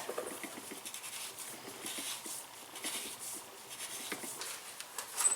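Light rubbing and scraping with many small clicks as metal parts of a coilover shock are handled, with a sharper click near the end.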